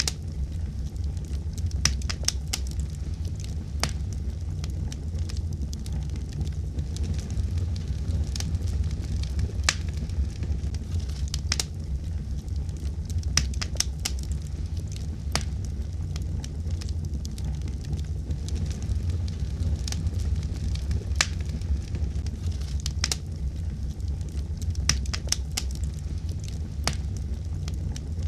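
Wood fire burning in a fireplace: a steady low rumble with sharp, irregular crackles and pops scattered throughout.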